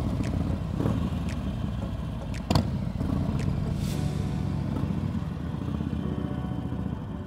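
Harley-Davidson V-twin motorcycle engine running steadily, with a sharp click about two and a half seconds in.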